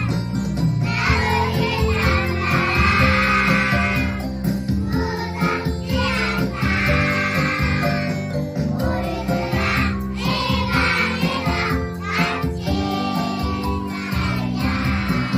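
A group of young children singing a children's song together over instrumental accompaniment.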